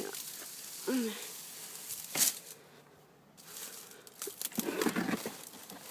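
Crinkling, rustling handling noise in two spells, with a sharp click a little after two seconds in.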